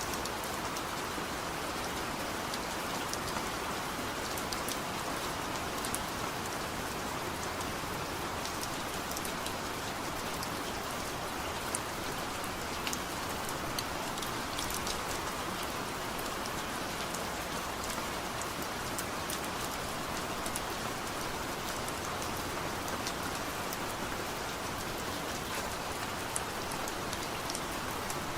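Steady heavy rain falling on a surface, a constant hiss with scattered distinct drop ticks and no thunder.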